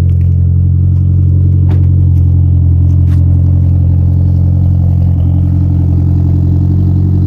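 1998 Mitsubishi Eclipse GSX's built 4G63 turbocharged four-cylinder idling steadily while warming up after a cold start, with a couple of faint ticks.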